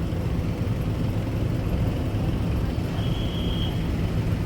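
Motorbike engine running on the move, with a steady low rumble of wind on the microphone, and a brief high tone about three seconds in.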